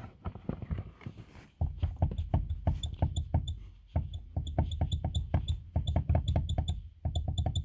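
Rapid, irregular knocking and clattering from the rear of a VAZ-2114 driving over bumps, over a low road rumble that comes in about a second and a half in. The owner traces it to play in a rear hinge knocking in its pivot, which gives the impression of a clunking from the back.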